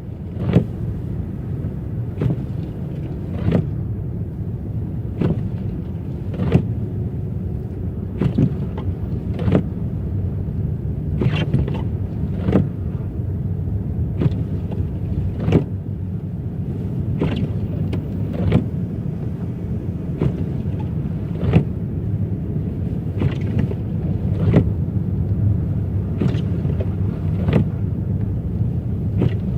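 Steady low road and engine rumble inside a car on a rough snowy road. Windshield wipers sweep across it with a short stroke sound at each end of the sweep, two strokes about every three seconds.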